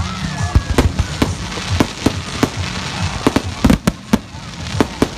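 Fireworks display: a rapid, irregular run of bangs and pops from bursting shells, with the densest, loudest cluster about three and a half seconds in.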